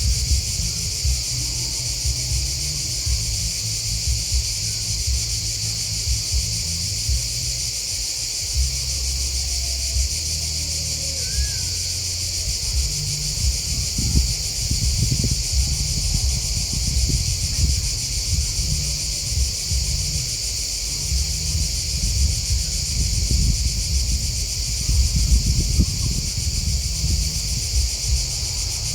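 Steady, high-pitched chorus of chirping grasshoppers and crickets, with an uneven low rumble underneath that swells in surges in the second half.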